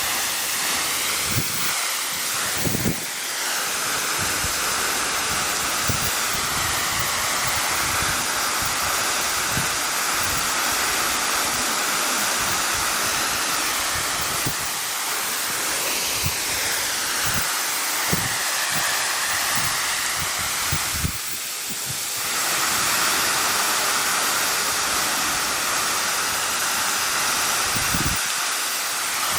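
Steady rush of water pouring down Shiraito Falls, a vertical waterfall about 38 m high.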